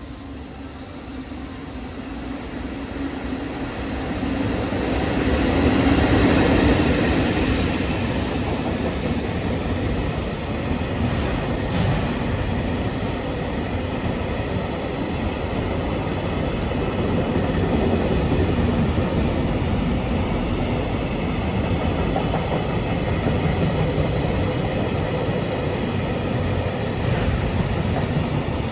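Container freight train hauled by an EF65 electric locomotive running through a station. It grows louder over the first six seconds as it comes in, then the container wagons roll past steadily.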